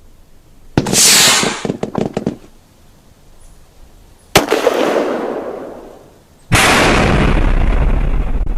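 Gunshot sound effects, three in a row: about a second in, a loud blast followed by a quick string of sharper cracks; past the middle, a single sharp shot with a long fading rumble; near the end, a long continuous blast with a deep low rumble that keeps going.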